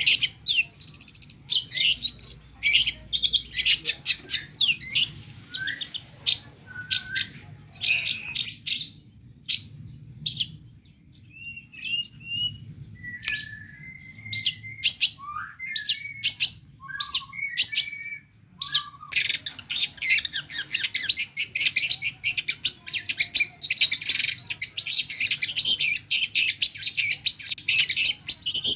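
Long-tailed shrike singing a loud, rapid song full of mimicked calls of other birds. The first third is dense chattering. In the middle, slower, lower whistled notes come with short pauses. The last third is a fast, unbroken chatter.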